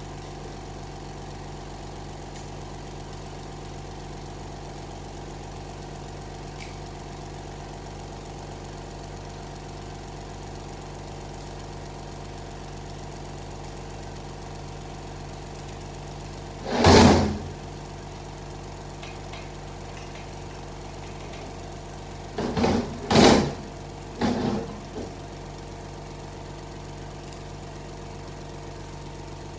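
A steady machine hum, with one loud sharp burst of about a second partway through and three more short bursts in quick succession later on.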